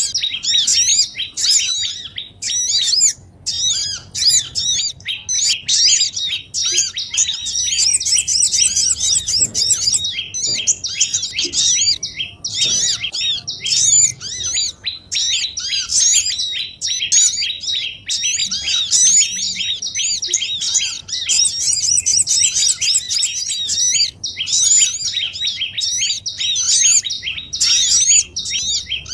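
Dense, unbroken chatter of small songbirds: many high, quick rising-and-falling chirps repeated several times a second and overlapping. It is a bird-trapping lure track mixing the calls of small birds such as the sogon.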